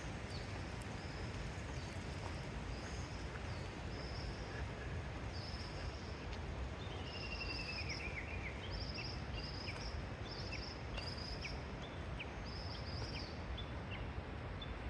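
Birds calling outdoors: short high chirps repeating about two a second through most of the stretch, with a falling trill about halfway through. Under them is a steady hiss of background noise with a few faint clicks.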